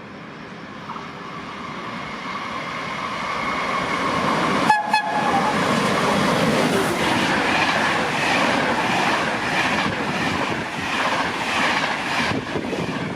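Train running into the station alongside the platform, growing louder over the first few seconds and then holding at its loudest. Wheels clack rhythmically over the rail joints, and a short steady tone sounds about five seconds in.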